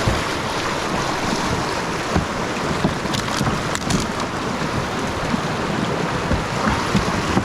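Rushing river whitewater churning around a kayak, a steady loud wash, with a few sharp knocks scattered through it.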